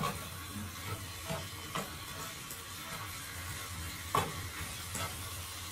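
Chicken pieces sizzling in a pot as they are stirred with a wooden spatula, with a few sharp knocks of the spatula against the pot, the loudest about four seconds in.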